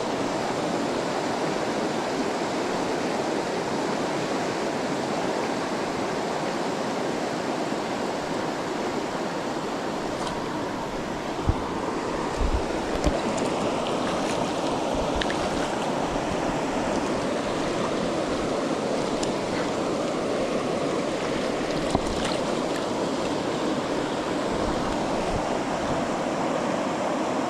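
Steady rush of river water flowing over rocks. A few brief low thumps come around the middle and once more later on.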